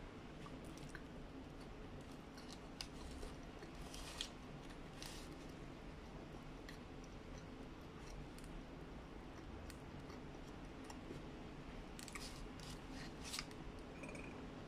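A person chewing a burger, with soft wet mouth clicks and short crackles of the paper wrapper, several of them close together near the end, over a steady low room hum.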